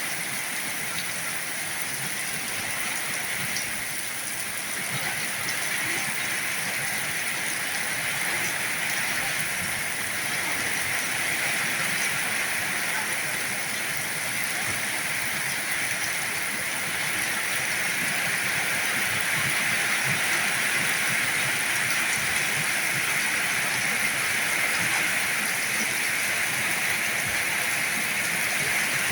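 Heavy rain falling in a steady, even hiss that grows slightly louder about a third of the way in.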